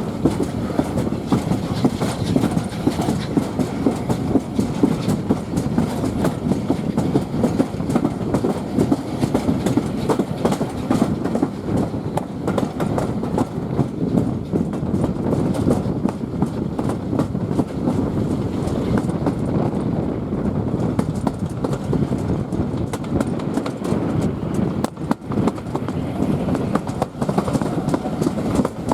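Railway carriage running along the line, a steady rumble with many wheel clicks over the rail joints.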